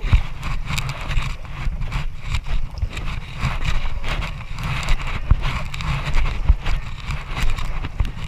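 Rushing river water around a rafting boat, with irregular splashes and knocks as the crew paddles, over a heavy low rumble on the microphone.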